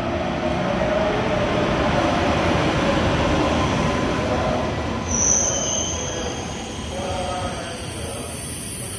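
A KTX high-speed train running along the platform track, its wheels and carriages making a steady heavy rumble. About five seconds in, a high-pitched squeal comes in over the rumble.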